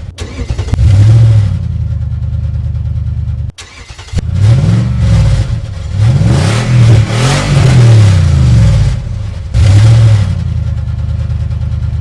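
Car engine running and being revved again and again, its pitch rising and falling with each rev, several quick revs in a row in the middle. The sound drops out abruptly for a moment about three and a half seconds in.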